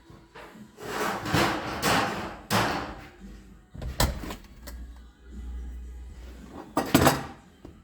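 Knocks, scraping and clatter of parts and tools being handled while working in a tractor cab, with a sharp knock about four seconds in and a louder bang near the end.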